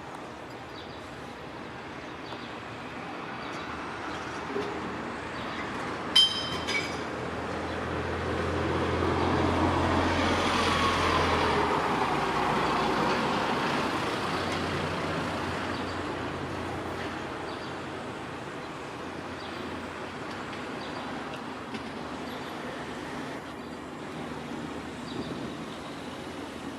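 A motor vehicle driving past: its noise builds over several seconds, is loudest about ten seconds in with a falling pitch as it passes, then fades away over a steady background of traffic noise. A short sharp click sounds about six seconds in.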